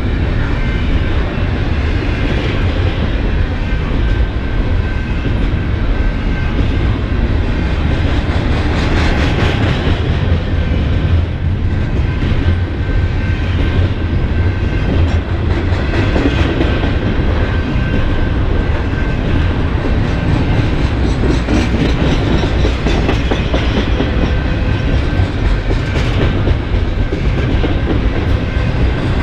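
Double-stack intermodal freight train passing at close range: a steady rumble of loaded well cars, with the wheels clacking over the rails.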